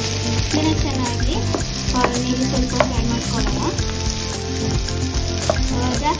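Sliced onions, green chillies and curry leaves sizzling in hot oil in a frying pan as a wooden spatula stirs and scrapes them, with a few sharp knocks of the spatula against the pan.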